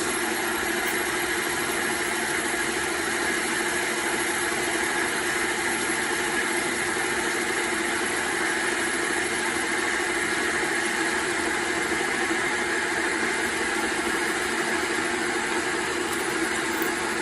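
Metal lathe running steadily under power feed while a parting tool cuts off an aluminum workpiece: an even machine hum with a thin high whine.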